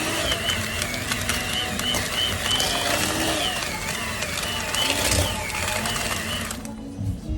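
A small electric motor running with a wavering whine, cutting off near the end.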